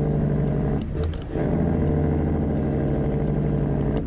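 Straight-piped Caterpillar 3406E inline-six diesel running steadily, with a brief dip in the sound and a few clicks about a second in and again at the very end.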